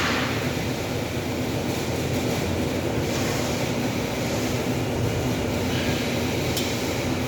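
A steady low mechanical rumble with a hum running through it, unbroken and even.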